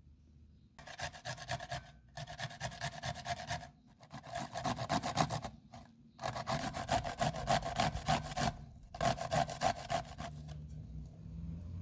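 Food being grated by hand on a metal grater: quick rhythmic scraping strokes, several a second, in five runs with short pauses between.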